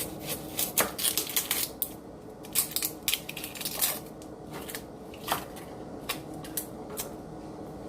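Onions being cut and peeled by hand with a knife: irregular crisp crackles and snaps of onion flesh and papery skin, coming in clusters, over a faint steady hum.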